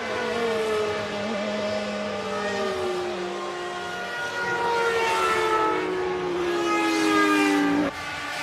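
Formula One V10 engines running at high revs, their pitch sliding slowly down in two long glides as cars pass or ease off. The sound cuts off abruptly near the end.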